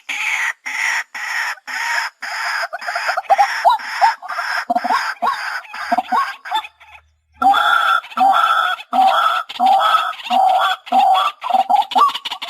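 White-breasted waterhen calling: a fast, unbroken run of harsh repeated call notes, several a second, that breaks off for a moment about seven seconds in and then carries on.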